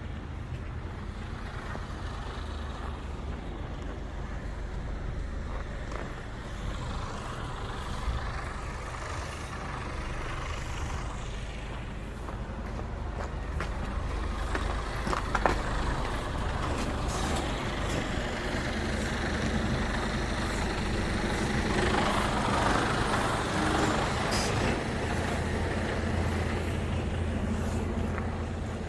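Truck engine running steadily, with scattered clicks, growing louder about halfway through, and a stretch of hiss around two-thirds of the way in.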